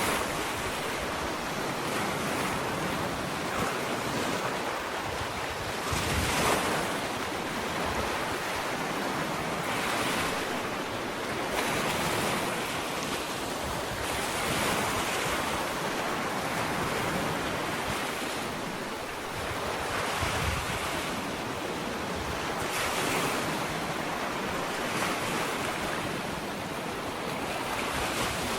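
Ocean waves breaking and washing up a sandy beach, a continuous surf hiss that swells every few seconds as each wave comes in, with some wind on the microphone.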